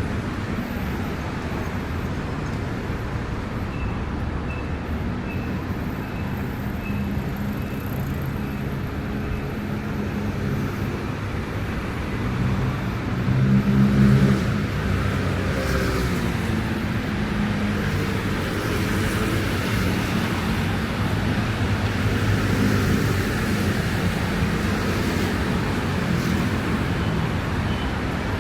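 Street traffic on wet city roads: a steady hum of cars, with a vehicle's engine passing close about halfway through.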